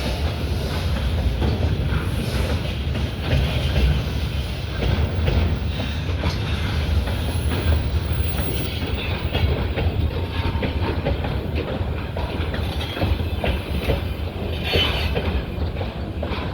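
Freight train hauled by a VL85 electric locomotive running over the rails, its wheels clattering steadily over the rail joints above a continuous low rumble.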